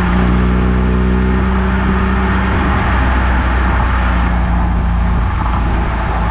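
Eunos Roadster on the move: its four-cylinder engine running at a fairly steady pitch, with continuous tyre and road noise over it.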